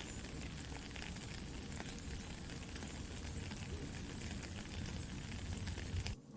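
Soft steady rain mixed with a crackling campfire: an even hiss scattered with small pops and crackles over a low rumble. The sound cuts out briefly near the end.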